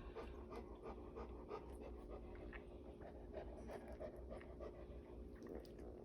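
Cane Corso bitch in labour panting quickly and steadily, a quiet, rapid run of short breaths, as she works toward delivering her next puppy.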